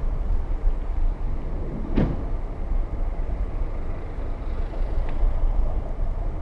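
Steady low rumble of riding a bicycle, mostly wind on the microphone and tyres rolling, with one sharp knock about two seconds in.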